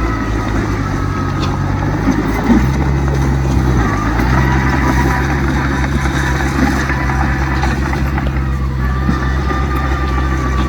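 Heavy diesel construction machinery running under load, a steady low engine note that shifts in pitch a few seconds in as the engine speed changes.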